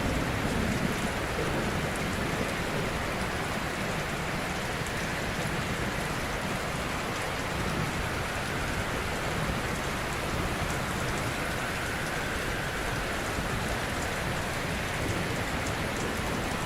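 Ocean surf: gentle waves washing on a shore in a steady, even hiss, swelling slightly at the start.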